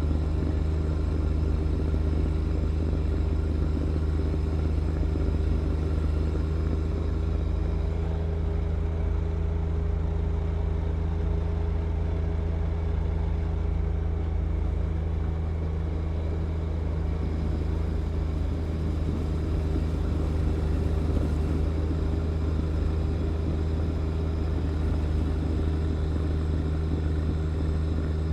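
John Deere 1025R compact tractor's three-cylinder diesel engine running at a steady speed, a constant drone that does not rise or fall.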